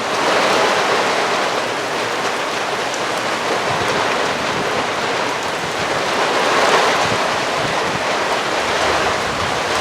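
Thunderstorm wind and rain: a loud, steady rush that swells slightly in gusts.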